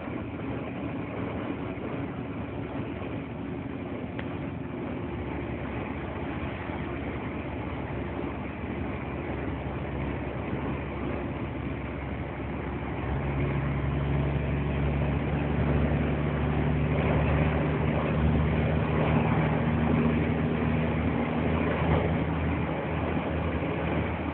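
Scania 124 L 360 truck's six-cylinder diesel engine running, growing louder with a steady deeper hum about halfway through.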